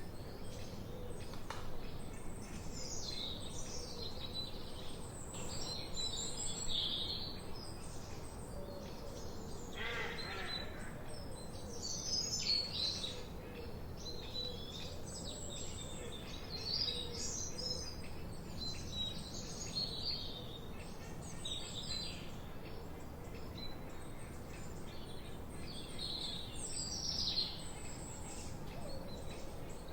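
Several forest birds singing and chirping, many overlapping high, quick phrases throughout over a steady faint background hiss. About ten seconds in there is a lower call that drops in pitch.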